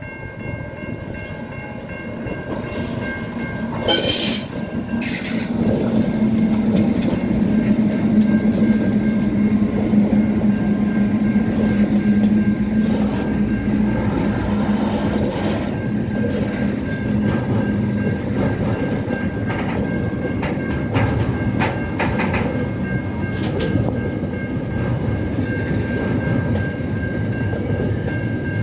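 A train running past on the rails, growing louder over the first several seconds and then holding steady, with scattered sharp clacks from the wheels on the track.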